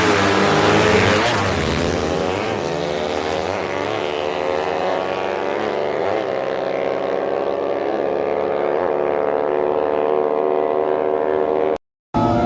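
High-revving DOHC racing engine running hard. Its pitch swings up and drops back over and over, about every second or so, and the sound cuts out completely for a moment near the end.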